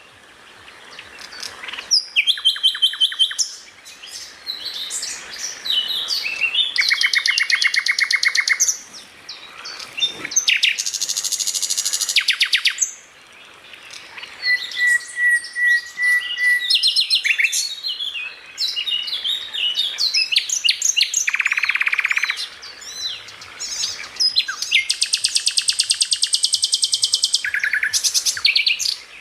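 Songbird song: fast, varied phrases of rapid trills, repeated chirps and whistles, broken by short pauses. This is a 'masteran' recording, birdsong played to train caged songbirds.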